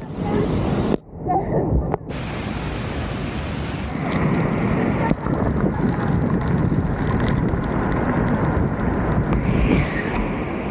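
Roar of Niagara Falls' water crashing down at close range, with wind buffeting the microphone. The noise breaks off abruptly about a second in, then comes back.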